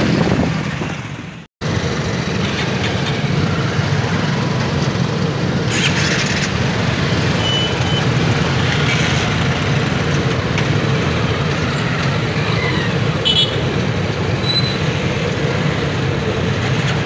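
Steady rumble of a passenger train's coaches rolling past at a railway crossing, mixed with the running engines of road vehicles waiting at the barrier. The sound cuts out for an instant about a second and a half in.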